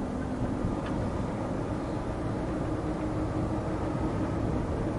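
Steady engine and road noise heard inside a long-haul truck's cab while driving, with a faint steady hum under it.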